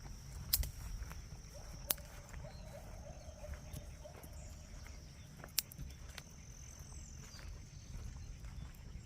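Rural outdoor ambience dominated by a steady high-pitched insect trill, like crickets, with three sharp clicks and a faint low rumble beneath.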